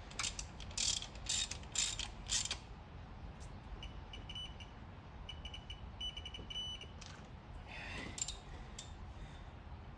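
Ratchet wrench clicking through several strokes as an intake manifold bolt is tightened, followed by a digital torque adapter beeping repeatedly in a high tone, the signal that the bolt has reached its set torque.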